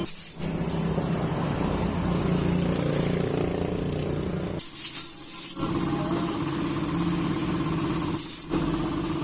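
Suzuki Raider 150 single-cylinder four-stroke engine running steadily, broken three times by short hissing bursts.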